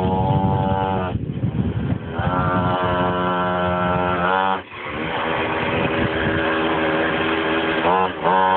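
Small pocketbike engine through its stock exhaust, revving and running. The revs are held high, drop sharply about four and a half seconds in, run steadily lower, then pick up again near the end.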